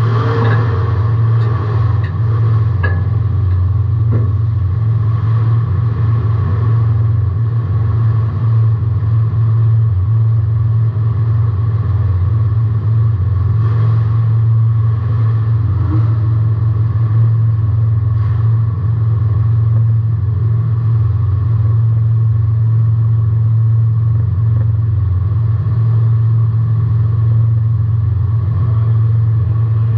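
Demolition derby car's engine running at a steady speed, a loud, even drone heard from inside the car, with a few light knocks in the first seconds.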